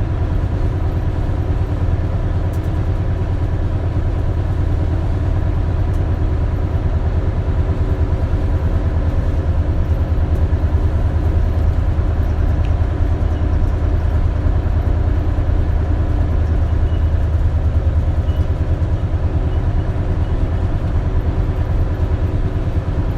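Isuzu Erga (KL-LV280L1) diesel city bus heard from inside the cabin while driving: a steady low engine drone with a faint constant whine above it. The drone eases slightly about eighteen seconds in.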